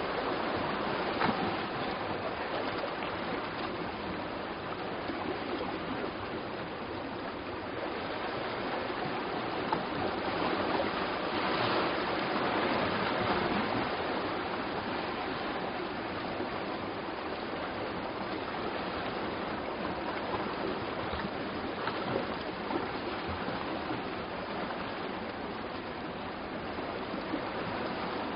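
Steady rush of sea surf washing ashore, swelling slightly in loudness a little before the middle.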